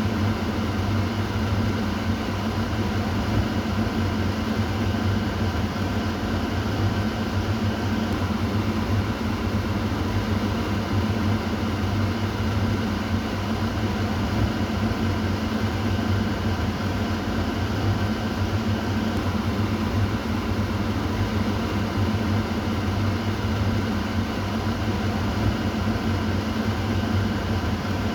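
Kitchen exhaust fan running steadily: a constant whoosh of moving air over a low motor hum.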